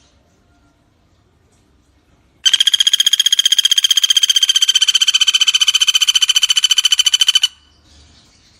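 Pelatuk bawang woodpecker giving one long, loud, rapid rattling trill of about a dozen ringing notes a second. The trill starts suddenly a couple of seconds in, holds an even pitch for about five seconds, then cuts off. Faint high chirping is heard before and after it.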